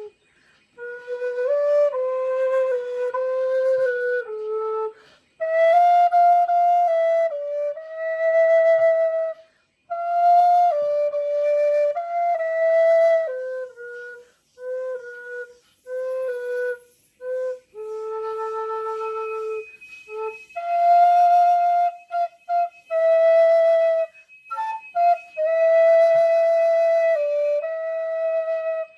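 Solo flute playing a slow, free melody of held notes separated by breath pauses, with a run of short quick notes about halfway through and brief ornaments near the end.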